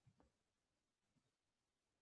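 Near silence: faint room tone during a pause in a guided meditation.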